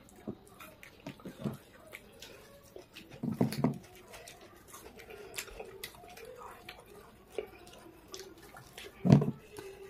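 Close-up eating sounds of people eating pav bhaji by hand: scattered wet chewing and mouth clicks, with two louder, deeper mouth noises, one about three and a half seconds in and one near the end.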